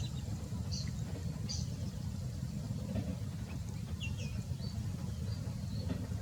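Short high bird chirps, some in quick pairs, come every second or so over a steady low rumble.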